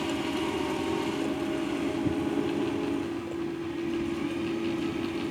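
Engine of a farm machine tilling a rice field, running with a steady drone.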